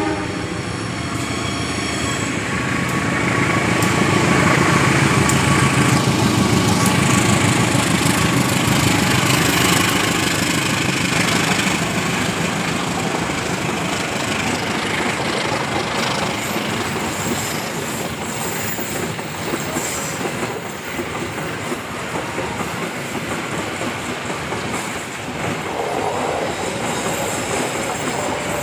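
Kamandaka passenger train passing close by at a level crossing, wheels running over the rails. It is loudest about four to ten seconds in, then settles into a steadier rumble as the long line of coaches goes by.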